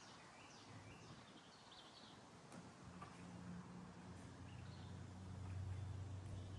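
Faint bird chirps, a few short calls in the first couple of seconds, over a low steady hum that gets a little louder near the end.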